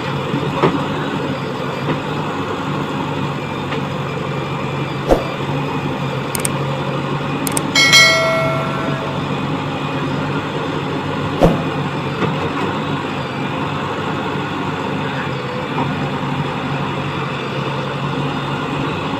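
Diesel engine of a working backhoe loader running steadily, with a few sharp knocks and a brief ringing tone about eight seconds in.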